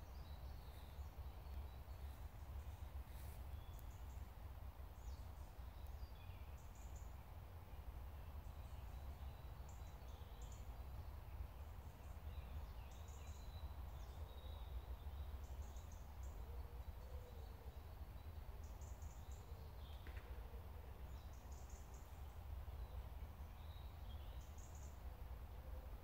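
Faint bird calls, short high notes repeating every second or two, over a low steady rumble.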